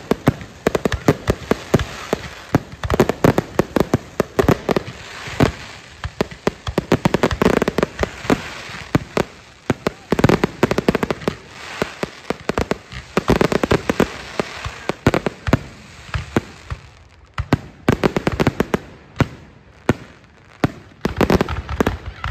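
Aerial fireworks exploding in a dense, rapid barrage of bangs and crackling bursts, thinning out briefly near the end before picking up again.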